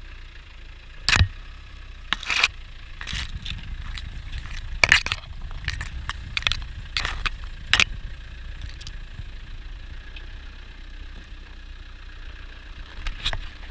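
A Land Rover Defender 90 engine running with a steady low rumble, broken by about a dozen sharp cracks and scrapes. The loudest come about a second in and around five seconds.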